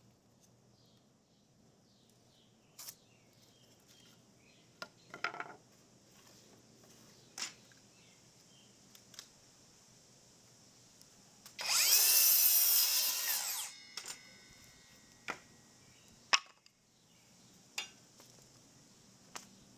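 A power drill runs in one burst of about two seconds, about twelve seconds in, its pitch shifting as it spins. Scattered single knocks and clicks of wood and tools being handled sound before and after it.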